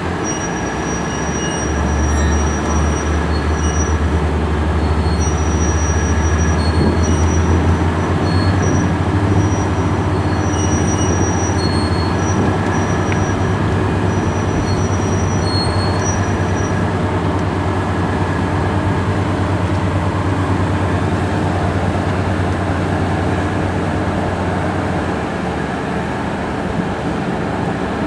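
Boat's engine running hard under heavy throttle, a deep steady drone that builds about two seconds in and eases off near the end, as its propeller wash churns the silted river mouth to dig more depth. Intermittent high-pitched chirps sound over it in the first half.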